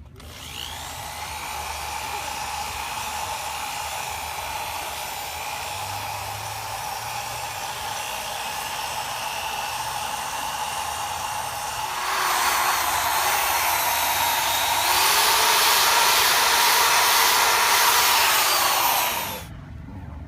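Electric drill motor running steadily under a headlight sanding kit. It gets louder twice, about twelve and fifteen seconds in, and stops a second before the end.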